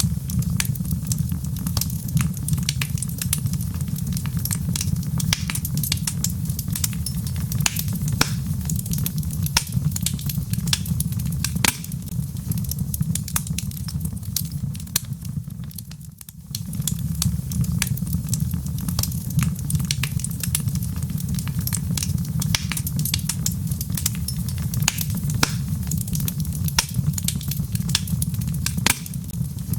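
Wood logs burning in a fireplace: a steady low rumble of flame with dense, irregular crackles and pops. The sound dips briefly about halfway through, then resumes.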